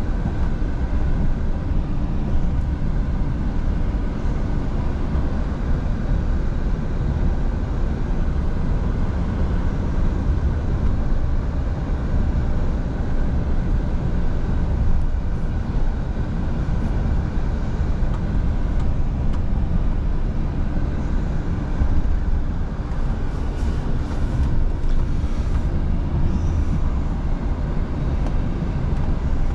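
Scania V8 truck cruising at a steady speed: an unchanging engine drone mixed with tyre and road noise.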